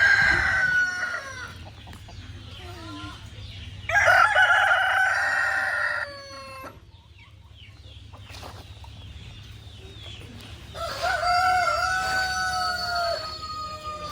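Roosters crowing: three long crows, at the start, about four seconds in and near the end. The middle crow is the loudest and ends in a falling note. A steady low hum runs underneath.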